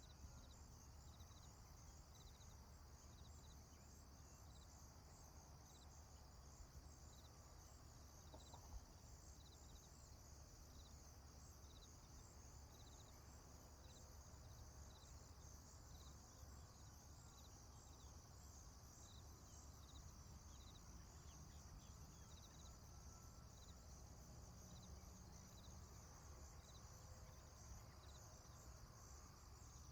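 Faint insects chirping in a steady, even rhythm over a low background rumble, with one brief click about nine seconds in.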